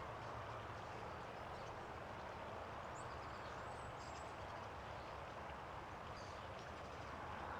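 A few faint, short, high bird chirps about three, four and six seconds in, over a steady background hiss and low hum of outdoor ambience.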